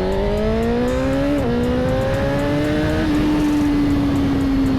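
Suzuki GSX-R1000 inline-four engine accelerating hard: the note rises, drops at an upshift about a second and a half in, climbs again, then settles into a steady, slowly falling drone after about three seconds. Wind noise runs underneath.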